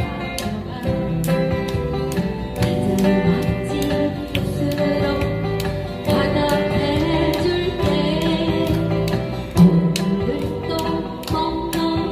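Acoustic guitars strummed in a steady rhythm, playing the instrumental break of a Korean folk song.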